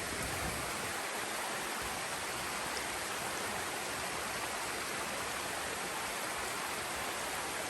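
Waterfall rushing nearby, a steady, even roar of falling water with no let-up.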